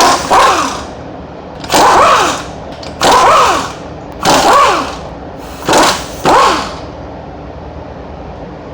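Impact wrench firing in six short bursts, each dying away with a falling whine, as it spins off the car's wheel bolts.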